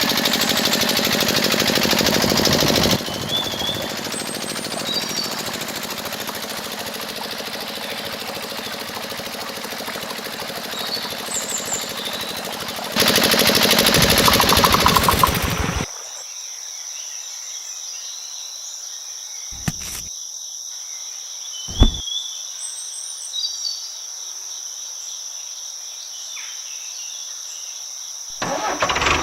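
A small motor running with a fast, even knocking rhythm, cutting in and out abruptly in several stretches. Birds chirp throughout, and in the quieter second half a steady high whine is heard with a couple of sharp clicks.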